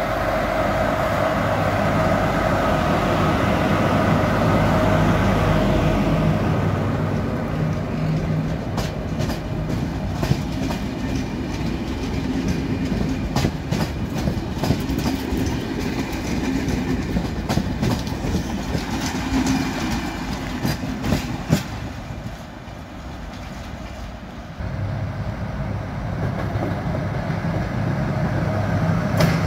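A train passing: a steady machine hum at first, then about fifteen seconds of rapid clickety-clack from the wheels striking the rail joints. The sound dips briefly, then a low hum returns near the end.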